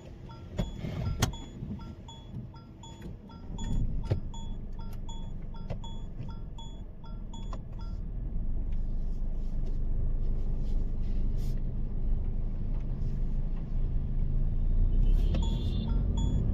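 Mahindra XUV 3XO's 1.2-litre turbo-petrol three-cylinder and its tyres heard from inside the cabin on a rainy drive, a low rumble that grows louder about halfway through. Scattered sharp taps and a short repeated electronic tone, about two a second, run over it.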